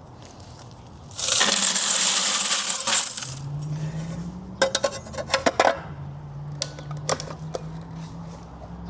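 A heavy load of coins pours out in a loud rush lasting about two seconds, followed a little later by a flurry of sharp coin clinks. A steady low hum runs underneath from about halfway in.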